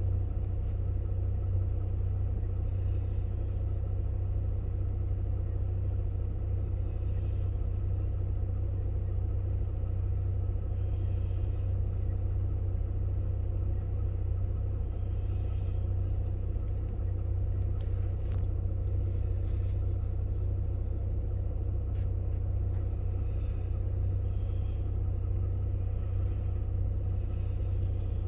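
A steady low rumble, with a faint higher pulsing about every two seconds and a few brief clicks about two-thirds of the way in.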